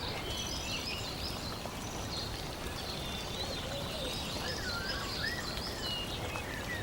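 Several small birds chirping and twittering over a steady background hiss.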